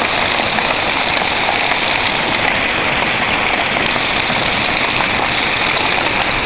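Heavy storm downpour, rain and hail pelting down in a steady, dense hiss with no let-up.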